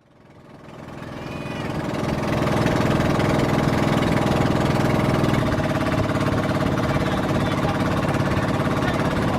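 Motorised outrigger boat's engine running steadily at a constant speed, with a fast rattly firing beat; it fades in over the first two seconds.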